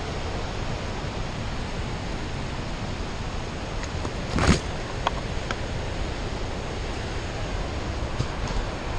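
Steady rushing noise of river water flowing over rocks, with one brief thump about halfway through and a few faint clicks after it.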